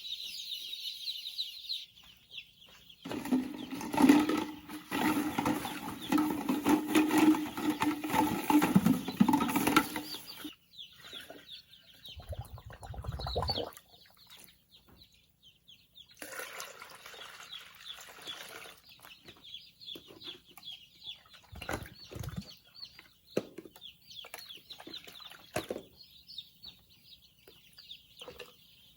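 Young chickens peeping in a fast, high-pitched chorus. This is broken early on by a loud clattering, rustling noise lasting about seven seconds, and about halfway through by a short low rumble.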